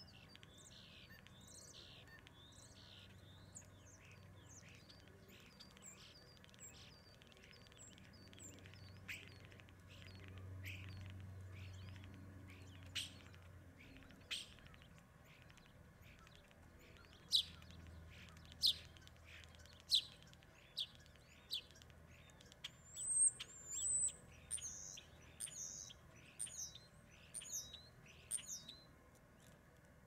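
Small birds chirping and calling: a scatter of short, high chirps, with sharper, louder single notes coming more often in the second half and a brief warbling phrase near the end.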